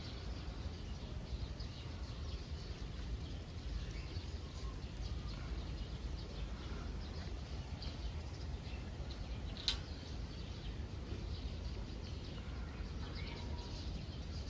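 Faint, scattered bird chirps over a steady low rumble, with one sharp click about ten seconds in.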